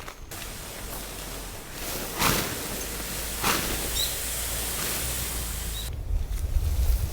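Wind rushing, a steady noisy hiss with two stronger gusts a couple of seconds apart; near the end a fluttering low rumble of wind buffeting the microphone comes in.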